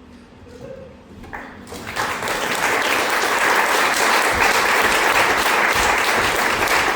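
Audience applauding, starting about two seconds in and building to a steady, loud round of clapping at the end of a scene.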